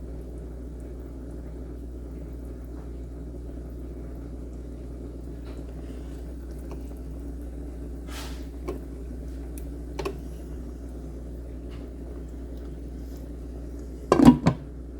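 Steady low hum of room tone, with a few faint clicks partway through and a short cluster of louder knocks or thumps near the end.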